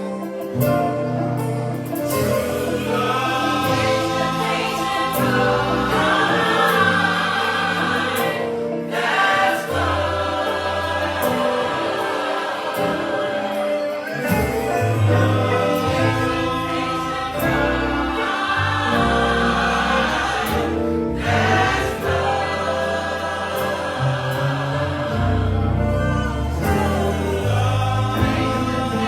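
Gospel choir singing in harmony with band accompaniment and a steady bass line, pausing briefly between phrases.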